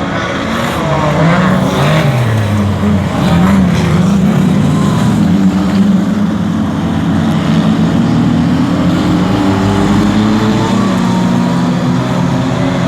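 Stock car engines racing around a speedway oval, their notes rising and falling as the cars accelerate and back off, with several engines heard at once.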